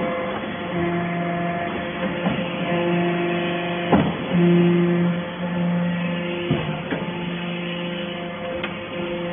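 A hydraulic metal-shavings baler running: a steady machine hum with a fixed-pitch whine that cuts in and out in stretches of about a second, and several sharp knocks.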